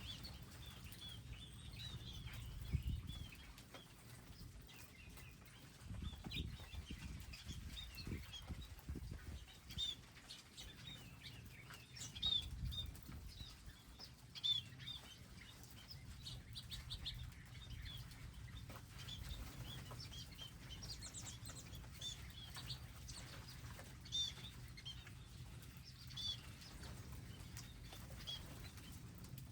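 Small wild birds at a garden feeding area chirping in many short, high calls, with the flutter of wings as birds come and go.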